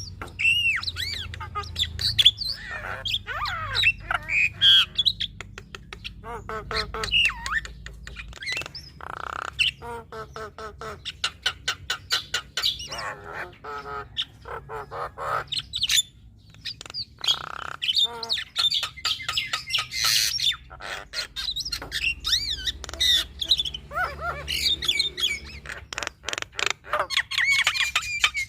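Female Javan myna (jalak kebo) singing a long varied song of harsh squawks, whistled glides and rapid clicking rattles, full of mimicked phrases.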